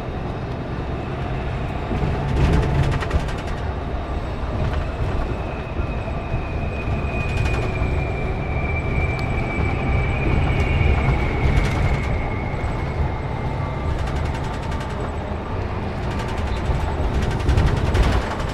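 Scania K410CB coach on the move: a steady low rumble of engine and road noise, with a few short knocks and rattles. A faint high whine slowly falls in pitch in the middle.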